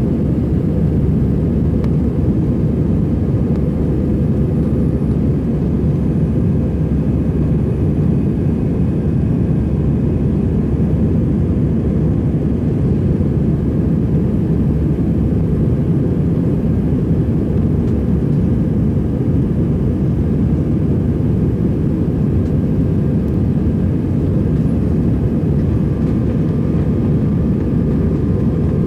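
Steady low rumble of jet engines and airflow heard inside the cabin of an Airbus A321-200 during takeoff, unchanging throughout.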